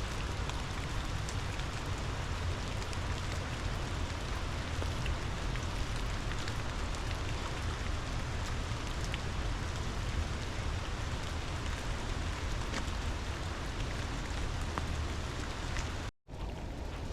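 Rain falling with a river and waterfall rushing: a steady, even hiss with scattered small drop ticks over a low rumble. The sound cuts out for a split second near the end.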